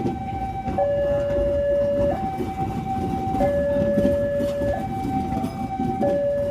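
Two-tone electronic warning siren alternating between a low and a high note, each held about a second and a quarter, over the low rumble of a passing train.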